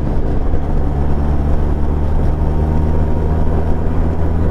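Benelli TRK 502's parallel-twin engine running at a steady speed under way, its note holding an even pitch.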